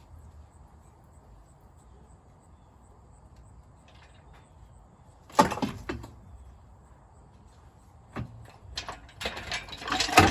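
Hard knocks and clanks of metal parts and tools during engine removal: one loud clank about five seconds in, a lighter knock near eight seconds, then a run of clanks and rattles near the end.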